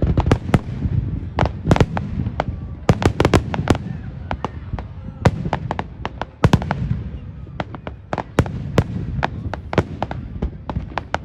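Fireworks going off in quick succession: dozens of sharp cracks and pops, bunched in rapid clusters, over a steady low rumble of booms.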